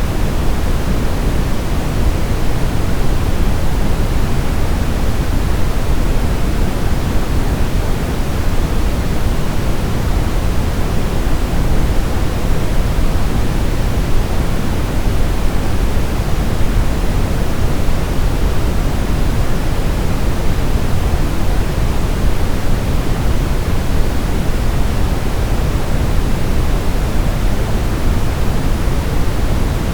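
Steady brown noise: a deep, even hiss with no changes, strongest in the low end and fading toward the highs.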